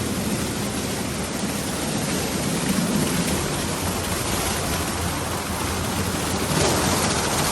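Daifuku TWINFECT FORCE automatic car wash machine running, a steady rush of water spraying onto the car. The spray gets louder about a second before the end.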